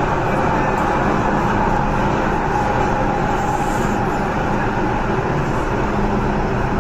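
MTR M-train electric metro car running steadily, heard from on board: a continuous rumble of wheels on rail with a faint steady hum from the running gear.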